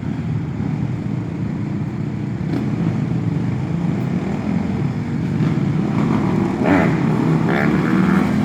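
A group of dirt bikes and four-wheeler ATVs riding past, their engines running together and getting louder, with revving that rises and falls in pitch in the last few seconds.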